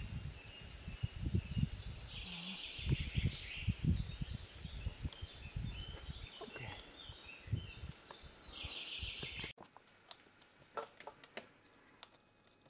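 Songbirds singing and chirping among the trees, with loud, irregular low rumbling on the microphone. About ten seconds in it cuts to quieter, small sharp clicks of a squirrel eating food in its cage.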